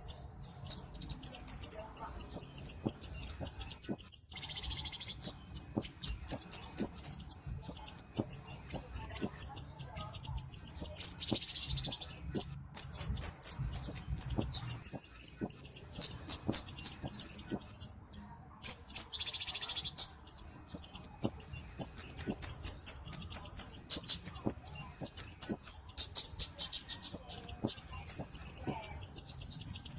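Kemade cabe-cabean (a flowerpecker) calling: fast runs of thin, very high ticking chirps, several a second, broken by short pauses. Three times a brief harsh, hissing rasp cuts in.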